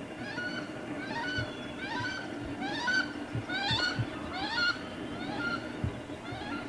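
A bird calling a long series of short rising notes, about two a second, that grow louder toward the middle and then fade.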